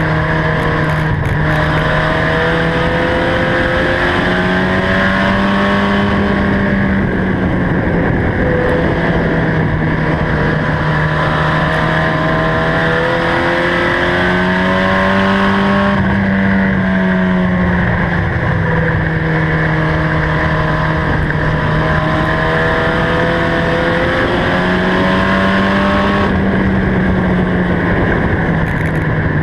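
A pack of mini trucks racing on an oval, several engines running hard together. Their pitch climbs and drops in a cycle about every ten seconds, rising on the straights and falling as they lift for the turns.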